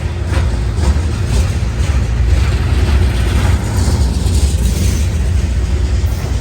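Train passing close by: a steady low rumble with repeated wheel clacks, about two a second.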